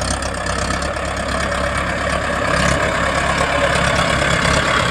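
Mahindra tractor's diesel engine running steadily with a low, even hum.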